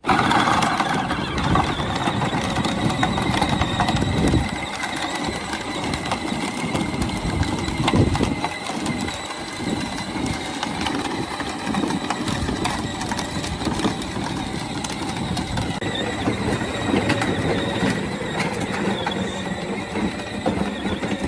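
A steady mechanical running noise with a faint whine and fine rapid rattling, starting abruptly.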